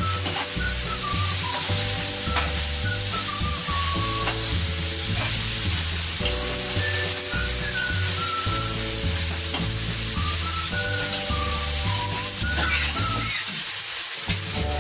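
Soya chunks and vegetables sizzling in sauce in a nonstick frying pan over a high gas flame, stirred and scraped with a steel slotted spoon, with one sharp knock near the end. Background music with a melody and a steady bass plays underneath.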